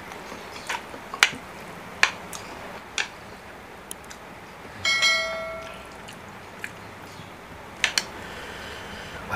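Mukbang eating sounds: sharp clicks and taps at the table, several in the first three seconds and a double click near eight seconds, with one ringing clink about five seconds in, like a utensil striking a bowl.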